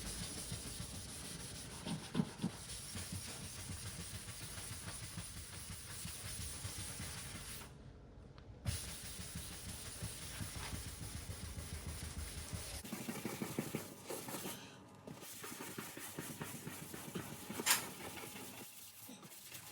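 Red Scotch-Brite abrasive pad scuffing an aluminium car body panel, a steady rubbing hiss that stops briefly twice. This keys the surface beyond the 400-grit sanded edge so the primer has something to grip.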